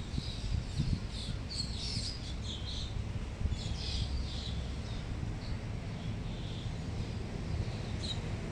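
Birds chirping, short high calls clustered in the first half with a few more later, over a steady low rumble from a diesel locomotive approaching slowly.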